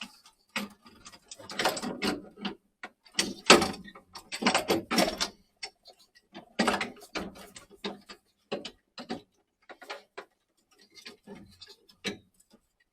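Irregular clicks, knocks and scrapes of boiler parts being handled and pushed into place while the new block is fitted inside an Ariston boiler.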